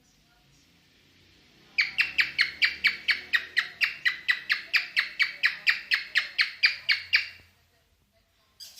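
Cockatiel in mating mood calling a fast, even string of sharp chirps, about four or five a second for some five seconds, starting about two seconds in and stopping abruptly; a few more chirps begin right at the end.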